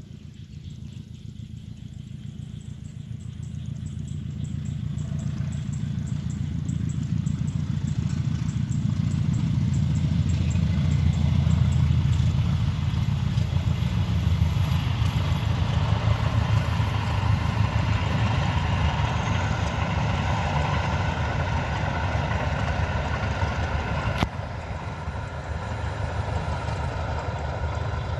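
A train approaching and passing: a low rumble that builds over the first ten seconds or so and then stays loud, with a single sharp click about 24 seconds in.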